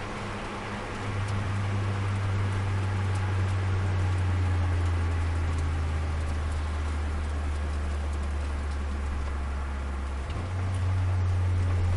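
Turbocharged Nissan Micra's four-cylinder engine droning steadily under load, heard inside the cabin over road and wind hiss. Near the end the drone drops out briefly for a gear change and then picks up again.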